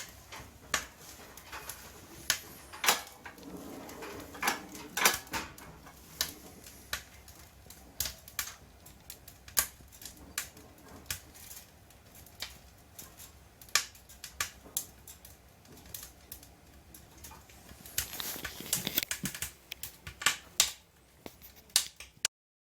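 Wood fire crackling in the firebox of a cast-iron stove: irregular sharp pops and clicks, a few louder than the rest, with a denser run of crackles near the end.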